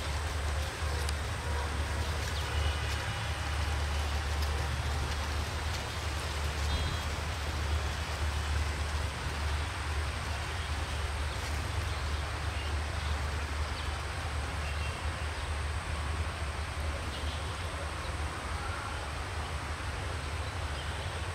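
Passenger train rolling away along the track: a steady low rumble of coaches on the rails that fades slowly as the rear of the train draws off.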